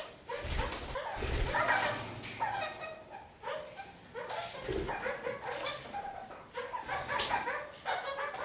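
Red-crowned parakeets (kakariki) chattering and calling in a busy run of short chirps, with a few dull low thumps, one in the first second and another just before the middle.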